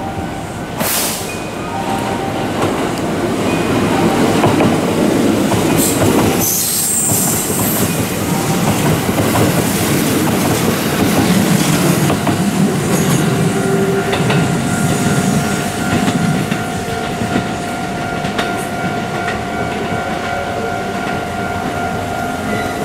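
Kintetsu 'Aozora II' electric charter train running past, its wheels clattering over rail joints, with a brief high squeal about six seconds in.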